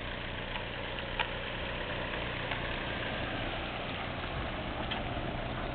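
Volkswagen Passat saloon's engine idling steadily, with a couple of faint clicks.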